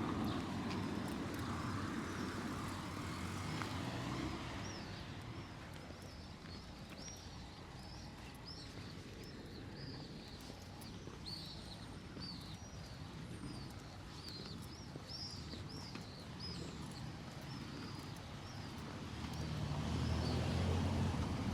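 Outdoor street ambience: a low traffic rumble at the start that fades after about four seconds, then birds chirping rapidly in quick high notes through the middle, and another low rumble building near the end.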